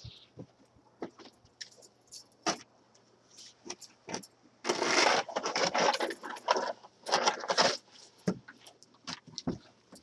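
Scattered light clicks and knocks, with two short bursts of clattering, jangling noise about five and seven seconds in.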